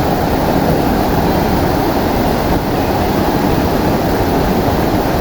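Waterfall at close range: steady, loud rushing of falling water, heavy in the low end.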